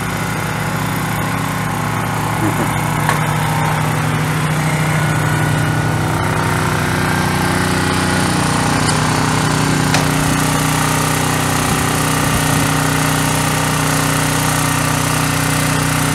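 An engine running steadily with a constant low hum, growing a little louder over the first few seconds.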